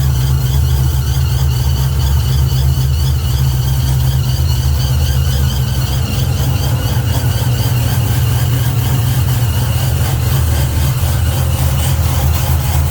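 Chevrolet Impala's engine idling steadily after a cold start, with a deep exhaust rumble and a fainter, wavering high-pitched whine over it.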